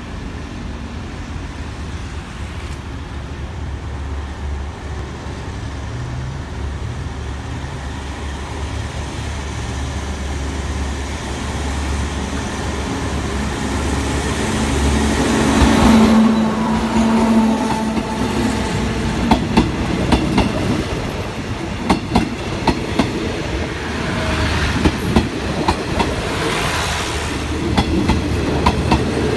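Passenger train hauled by an Alsthom diesel-electric locomotive approaching and passing close by, with a low engine rumble that grows louder. Past the midpoint the coach wheels set up a repeated clickety-clack over the rail joints, sharp clicks that are the loudest part of the sound.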